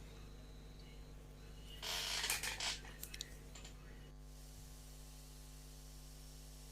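Small plastic model-kit parts handled on the bench: a brief rustle about two seconds in, followed by a few light clicks, over a steady low hum.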